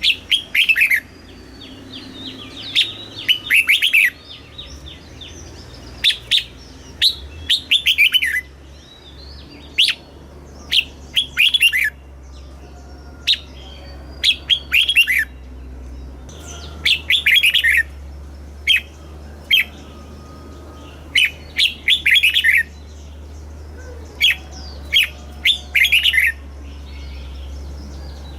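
Red-whiskered bulbul singing: short, loud phrases of quick falling whistled notes, repeated every second or two.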